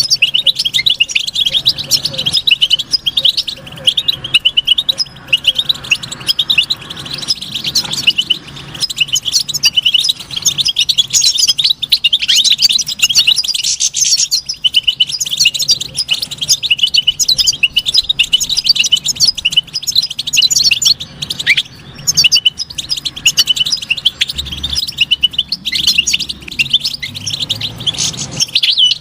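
European goldfinch singing: a fast, unbroken run of high twittering chirps and trills.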